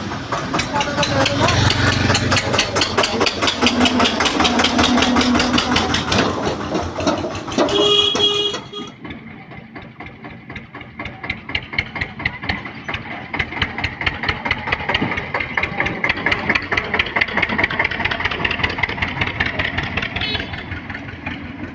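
Eicher 242 tractor's diesel engine running with a fast, even beat. It is louder for the first several seconds, then drops and sounds duller. A brief honk comes about eight seconds in.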